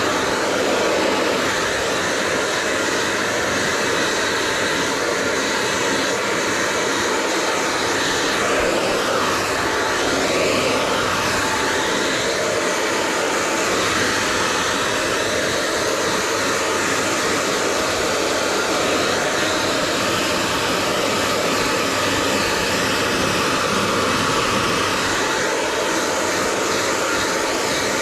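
Hair dryer blowing steadily: a constant rushing hiss of air and motor noise, with slight wavering in tone as the airflow shifts.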